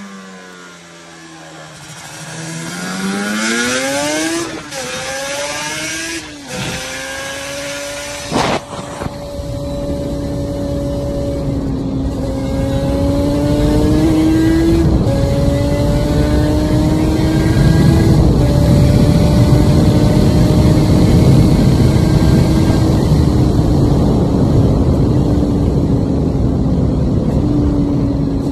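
Yamaha TZR 250 two-stroke parallel-twin motorcycle engine on expansion-chamber pipes, heard onboard: the pitch drops off-throttle, then rises through several upshifts. There is a sharp click about eight seconds in. After that the engine holds a steady high note at speed, with wind rush building under it.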